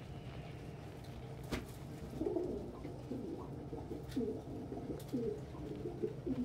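Domestic pigeons cooing inside a loft, a run of low coos from about two seconds in, with a few sharp clicks.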